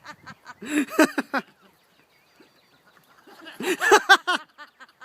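People laughing hard in two bursts of rapid cackling, with a quiet gap between them.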